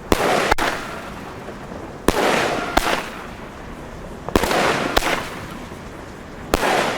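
TNT Pyro Tempa Lightning firework battery firing shot after shot, about one every two seconds, four in all. Each is a sharp bang followed by a crackling burst and a second sharp crack.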